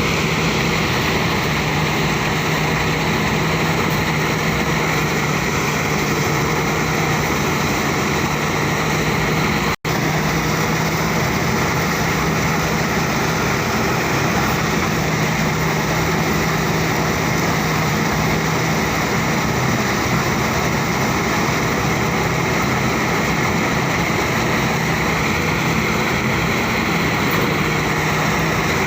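Engine-driven rice threshing machine running steadily under load, with a constant hum and a dense rushing noise. The sound cuts out for an instant about ten seconds in.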